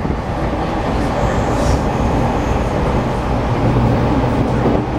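Steady running noise inside a moving E217-series electric train car: the rumble of the train under way on the rails.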